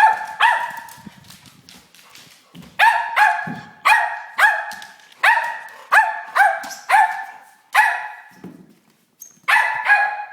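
A dog barking repeatedly in short, high-pitched barks, about a dozen in uneven runs with a pause around two seconds in and another near eight seconds.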